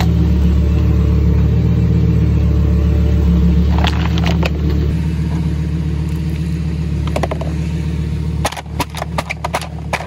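Car engine idling with a steady low rumble. Over it comes the sharp crackling of a crushed plastic bottle, briefly about four seconds in and again over the last few seconds, when the rumble drops away.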